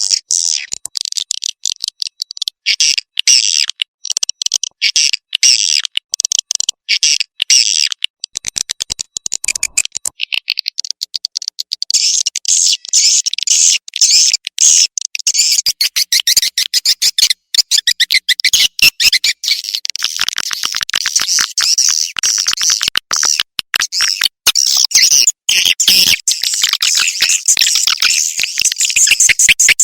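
Swiftlet lure call track: rapid, high-pitched twittering and chirping of swiftlets, broken by many short gaps, growing denser about a third of the way in. It is the kind of call played from a swiftlet house to draw edible-nest swiftlets in to roost and nest.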